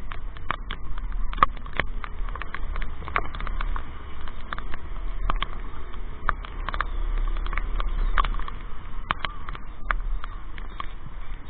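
Heavy raindrops striking close to the microphone in many irregular, sharp taps, over a steady low rumble.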